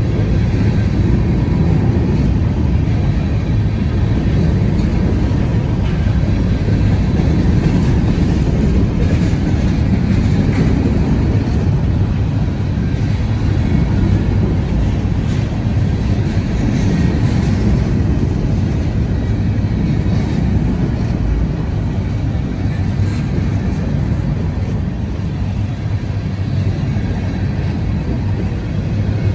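Freight train of covered hoppers and tank cars rolling steadily past: a loud, continuous rumble of steel wheels on the rails.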